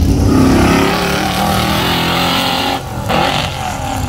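Chevrolet Nova's engine under hard acceleration through an autocross course, the pitch rising and falling as the driver accelerates and lifts between cones. The note drops away briefly near the end, then comes back in a short surge.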